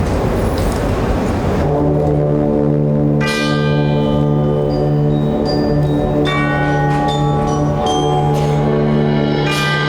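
After a brief rush of noise, a school concert band or orchestra begins a piece: a steady low sustained chord with struck bell tones, like chimes, sounding about every three seconds over it.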